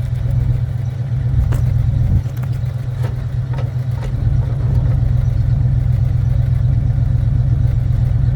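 Engine of a 1984 tow truck running steadily, a deep continuous drone that picks up a little about five seconds in, with a few faint clicks over it.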